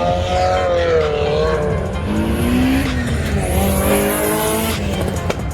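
Car engine revving hard several times, its pitch rising and falling over a steady low exhaust rumble.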